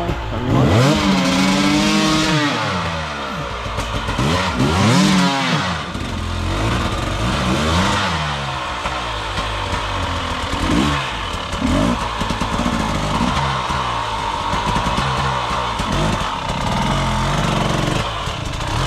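Dirt bike engine revving up and down as it is ridden, with a few long rising-and-falling revs in the first several seconds and shorter, quicker blips of the throttle after that.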